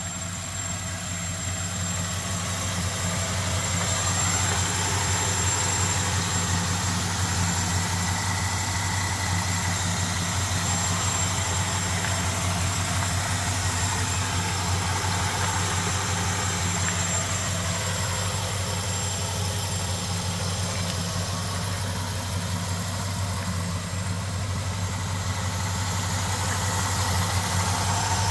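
1966 Chevrolet Impala's small-block V8 idling steadily, growing a little louder over the first few seconds.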